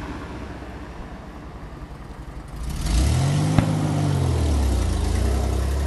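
A car engine comes up loudly about three seconds in, its pitch rising briefly and then settling to a steady run at idle. A single sharp pop is heard just after the engine picks up.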